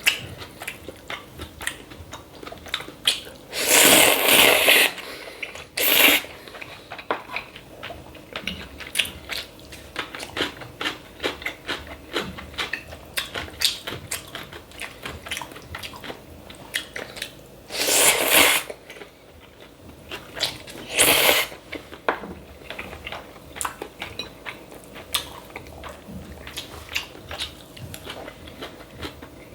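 Close-miked eating of cold buckwheat noodles: chewing and crunching clicks run steadily, broken four times by loud noisy slurps of the noodles lasting up to about a second and a half.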